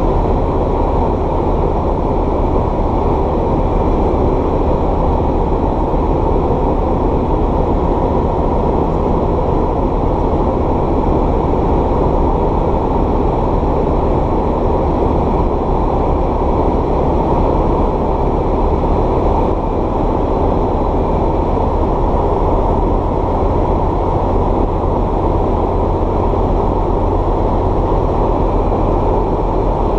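Light aircraft's piston engine and propeller heard from inside the cockpit in flight: a loud, steady drone that does not change.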